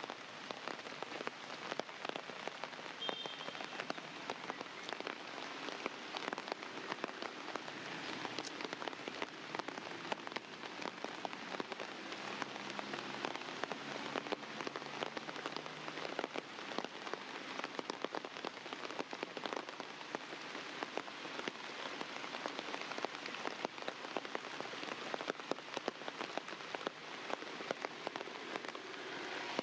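Steady rain falling, a dense, even hiss of many small drop hits on surfaces.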